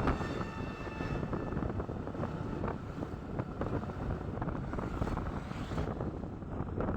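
Motorcycle riding along, with the engine running under wind rushing over the microphone. A faint high whine fades out over the first few seconds.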